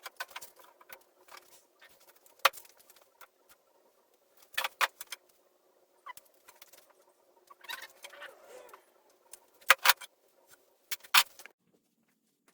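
Sharp metallic clinks and clacks, a handful of them scattered irregularly with light rattling and scraping between, as of tools and metal hardware being handled; the loudest are a close pair about ten seconds in.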